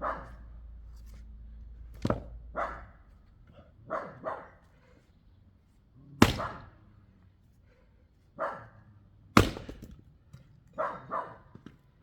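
An axe striking wood: three sharp cracks, the loudest about 6 and 9 seconds in. In between, a dog barks in short single and double barks.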